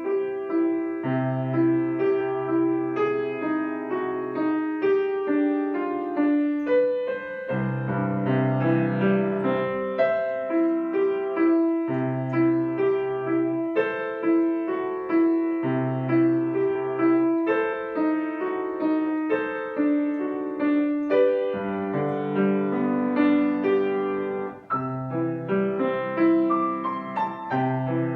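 Solo piano playing a flowing melody over recurring low bass notes.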